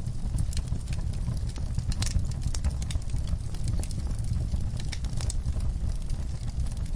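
Wood-burning fireplace fire crackling: sharp pops and snaps at irregular intervals over a steady low rumble of the flames.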